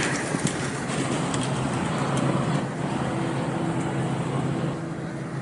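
City street traffic: a steady rumble of passing vehicles, with a steady engine hum joining in the middle.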